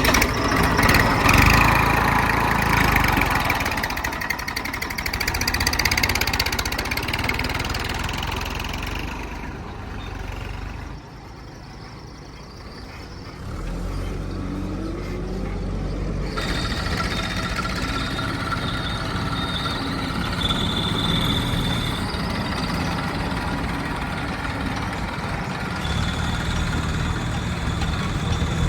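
Diesel engines of a JCB 3DX backhoe loader and tractors working, rising and falling in speed and load. The engines go quieter for a couple of seconds around the middle.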